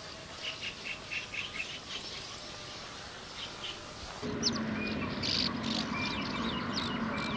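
Small birds chirping, many short high calls over an outdoor background. About four seconds in, a louder steady low hum comes in under the continuing chirps.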